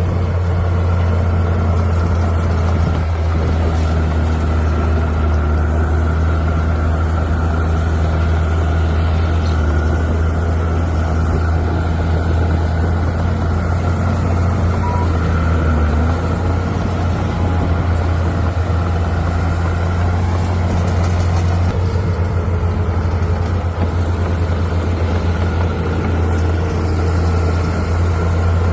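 Bulldozer's diesel engine running steadily under work, a constant low drone with a slight shift in its low hum about sixteen seconds in.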